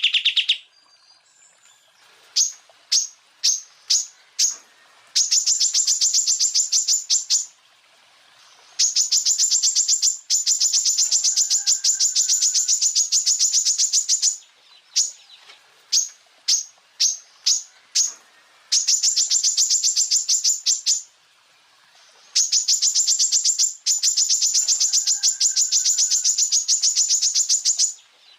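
Greater green leafbird (cucak ijo) singing: a few sharp single notes spaced apart, then long rapid-fire trains of the same high note repeated about ten times a second for several seconds at a time. These are the 'tembakan' shooting bursts, broken by short pauses.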